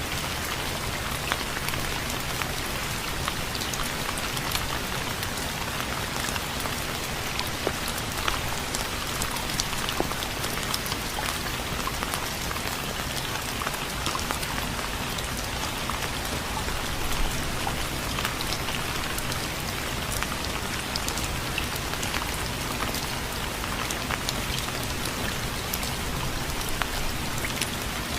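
Steady rain, with many individual drops ticking and pattering on a hard surface over an even rushing hiss.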